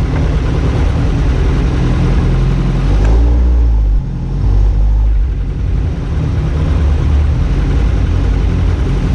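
BAC Mono single-seater's engine running hard under acceleration, with a sharp dip in level about four seconds in, like a gear change.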